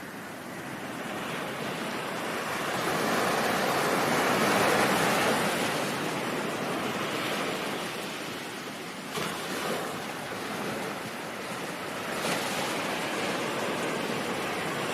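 Ocean surf washing in: a wave swells to a peak about four to five seconds in and ebbs away, and two smaller surges come in about nine and twelve seconds in.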